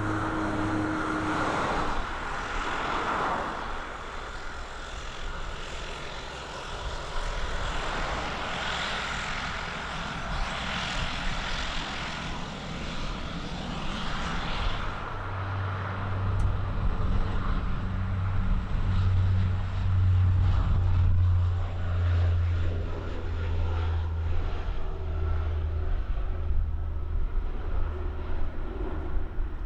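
Embraer 120 Brasilia twin turboprop at takeoff power: a steady engine whine with rushing noise at first, then from about halfway a strong low propeller drone that grows louder.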